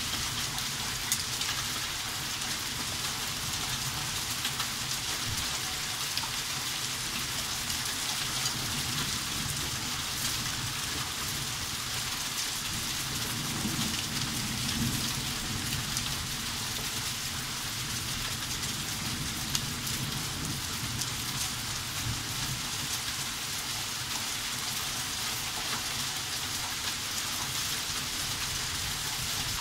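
Heavy rain of a hailstorm pouring down steadily, with scattered sharper taps.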